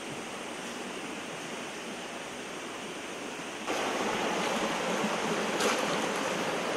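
Steady rushing of water, as from a rainforest creek, with no distinct events; it jumps abruptly louder a little past halfway through and holds there.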